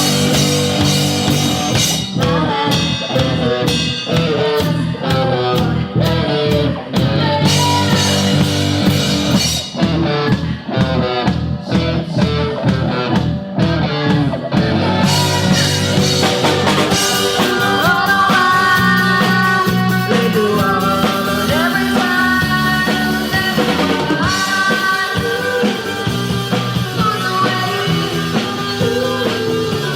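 A rock band playing live, with drum kit, guitar and a female singer. A fast, steady drum beat carries the first half, and about halfway through the sound fills out with held guitar and vocal notes.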